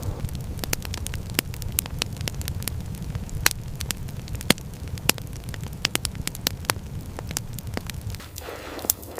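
Wood fire crackling, with many sharp irregular pops over a steady low rumble that fades near the end.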